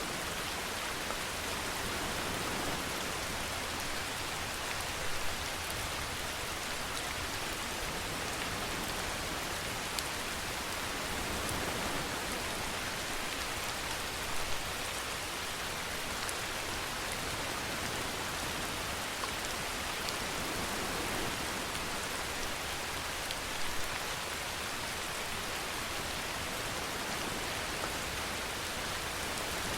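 Steady rainfall, an even hiss of rain on surfaces, with a few louder single drop taps now and then.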